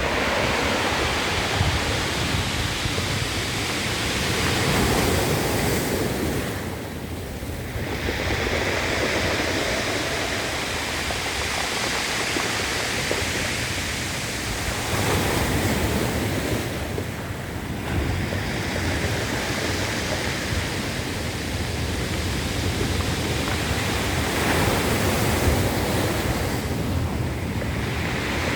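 Ocean waves breaking and washing on the shore in a continuous rush, easing off briefly about every ten seconds between surges.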